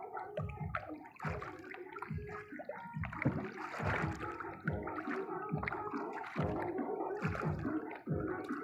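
Water sloshing and gurgling in repeated surges, about two or three a second.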